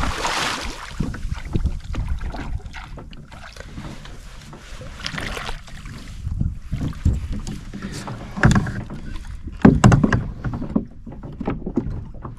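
Water sloshing against a kayak hull, with scattered knocks on the boat and a low wind rumble on the microphone. A louder rush of water comes right at the start, and two more louder bursts come about two-thirds of the way through.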